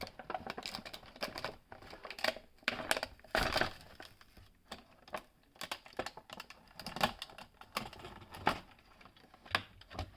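Plastic blister pack being pried and pulled off its cardboard backing card: irregular crinkling, cracking and tearing of plastic and card, loudest about three and a half seconds in.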